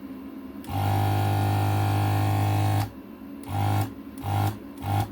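Vacuum pump of an electric desoldering station buzzing as it sucks molten solder off the LCD's pins: one long pull of about two seconds, then several short pulses.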